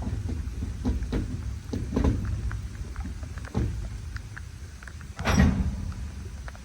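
Freight train rolling by: a low, steady rumble broken by irregular thumps and clanks, the loudest about five seconds in.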